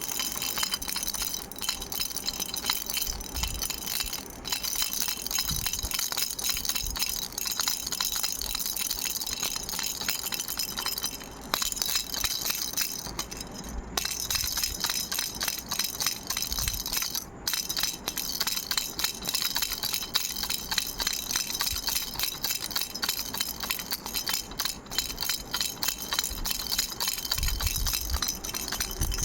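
Frog-shaped toy baby rattle shaken steadily, its beads clicking and clinking quickly, with brief pauses about 11, 14 and 17 seconds in.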